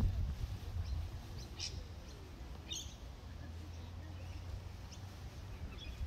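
Birds chirping in a few short, high calls, the clearest about a second and a half and nearly three seconds in, over a steady low rumble.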